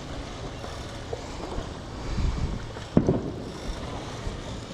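Steady low rumble of wind and boat noise on the water, with one sharp knock about three seconds in.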